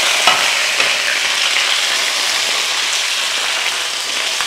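Boiled chicken pieces and fried onions sizzling steadily in hot oil in a wok, turned with a slotted spoon, with a couple of light clicks near the start.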